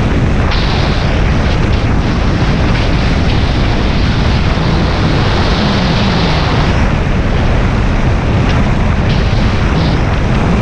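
Suzuki Bandit 650S inline-four motorcycle running steadily at highway speed, under a loud, constant rush of wind noise over the microphone.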